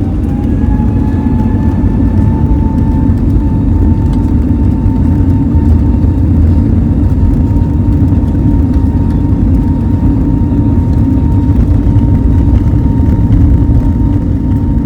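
Airliner engines heard from inside the passenger cabin: a loud, steady low rumble with an engine whine that rises in pitch in the first second, then holds steady as the sound grows louder and levels off.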